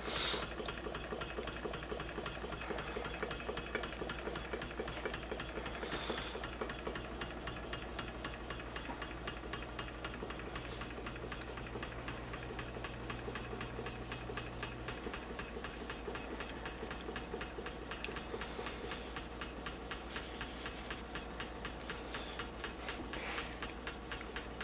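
An original Henrici hot air (Stirling) engine running steadily, its linkage clicking with a fast, even beat.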